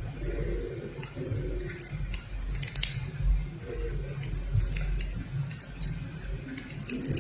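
Irregular small clicks and taps, a few close together, over a low rumble.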